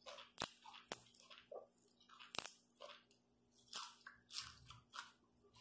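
Close-up biting and crunchy chewing of raw fresh herbs, irregular crackling mouthfuls with a few sharp crunches.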